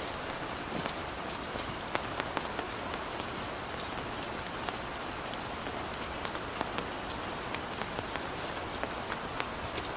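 Heavy rain falling: a steady hiss with many individual drops striking sharply and irregularly throughout.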